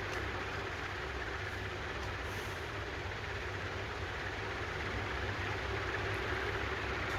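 Honda GCV190 lawn mower engine running steadily after its carburetor has been cleaned.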